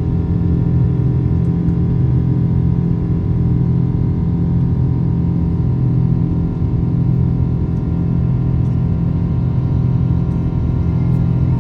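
Boeing 777 cabin noise during the climb after takeoff: the jet engines give a loud, steady low drone with several constant hum-like tones over it.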